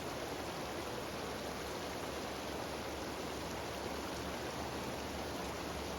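Steady rushing of a cascading mountain stream over rocks.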